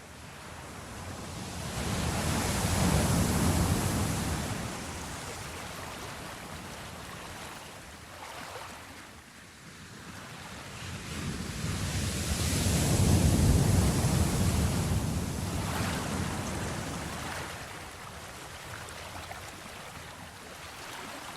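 Ocean surf, with two waves about ten seconds apart, each building up to a rush and then washing back down.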